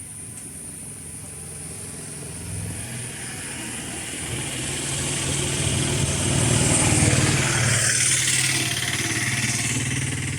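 A motor vehicle's engine approaching and passing on the road, growing louder to a peak about seven seconds in, then fading.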